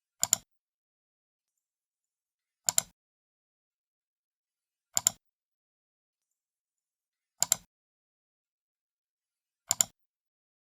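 Computer mouse left button clicked five times, about every two and a half seconds, each click a quick double tick as the button is pressed and released.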